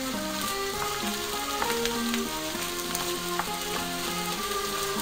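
Bacon, onion and mushrooms sizzling in a hot frying pan while being stirred, with scattered clicks of the utensil against the pan. Background music with a melody plays over it.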